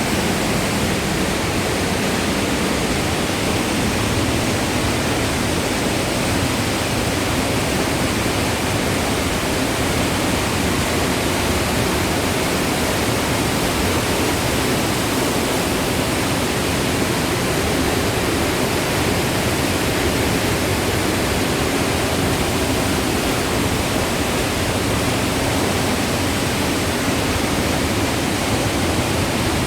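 Loud, steady rush of falling and tumbling water on the Kozjak stream, an even unbroken noise with no separate events.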